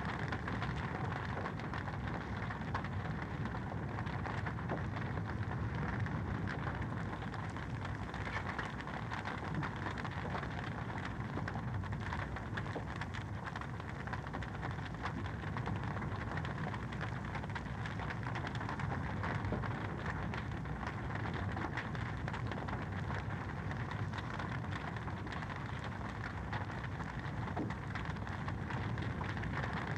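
Fire in a fireplace crackling steadily: a dense, even run of small pops and ticks over a low, constant rumble.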